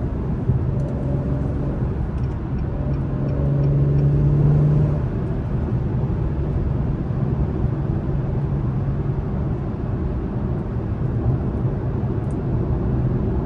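2021 Acura TLX Type S's turbocharged 3.0-litre V6 in sport mode, heard from inside the cabin under way over steady road noise. The engine note swells about three seconds in and eases back about two seconds later.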